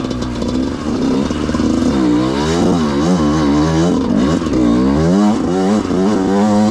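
Yamaha YZ125 two-stroke single-cylinder dirt bike engine being ridden hard over rough ground, revving up and dropping back over and over as the throttle is worked.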